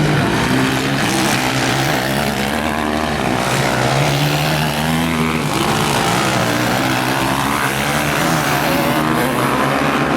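Several motocross bikes' engines racing together, their pitches rising and falling as the riders open and close the throttle, overlapping continuously.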